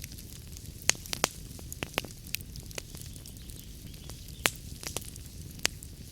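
Wood fire crackling in a fireplace: irregular sharp pops and snaps, a dozen or so, over a steady low rumble of the flames.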